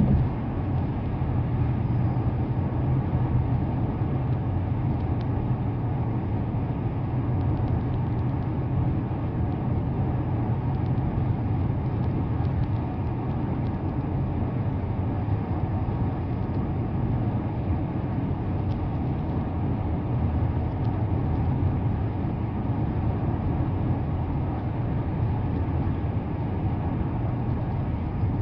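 Car driving on the road: a steady low rumble of tyre, road and engine noise that holds even throughout.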